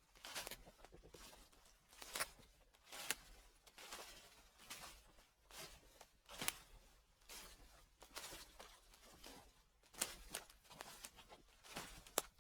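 Slow footsteps crunching through dry fallen leaves, about one crackling step a second.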